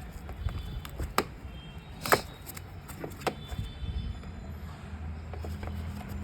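Scattered light clicks and knocks from handling tools and parts on an opened electronic keyboard's circuit board, the loudest about two seconds in, over a low steady hum.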